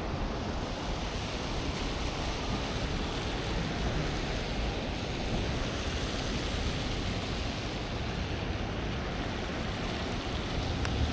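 Steady rushing outdoor noise of a snowstorm street: wind buffeting the microphone over the wash of the city, with a brief faint click near the end.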